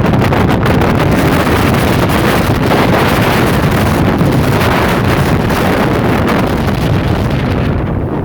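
Antarctic blizzard wind blowing hard and buffeting the microphone in a loud, steady rush. The high hiss thins just before the end.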